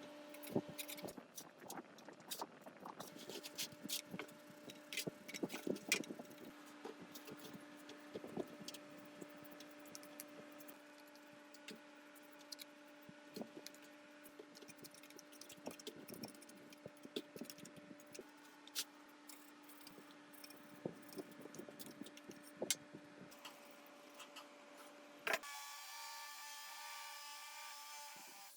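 Light clinks and taps of metal parts and hand tools being handled, over a steady faint hum. About 25 seconds in, a sharp click is followed by a few seconds of pitched whirring.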